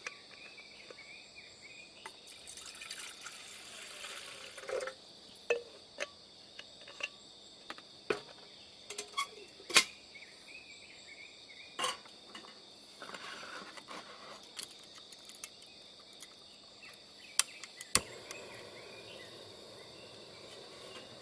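Insects chirring steadily in a high, even drone, with scattered sharp clicks and knocks of gear being handled, and a couple of short rushing, pouring-like noises.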